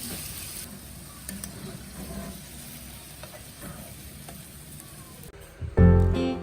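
Food sizzling in a frying pan, with scattered light clicks of stirring. Music comes in loudly near the end.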